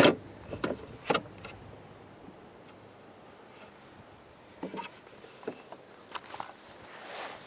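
Scattered clicks and knocks from handling the battery compartment of an EGO 56-volt electric lawn mower, a sharp one at the very start, two more in the first second or so, then a few more from about five seconds in.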